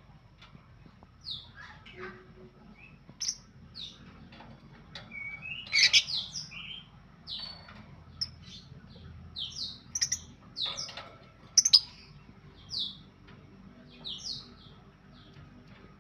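Lovebirds chirping: many short, sharp, high chirps in an irregular stream, with a few sharp clicks mixed in.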